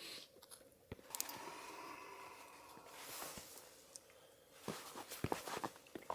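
Handling noises: scattered knocks and clicks, with a scraping rustle lasting about two seconds from about a second in, and a quick cluster of knocks near the end.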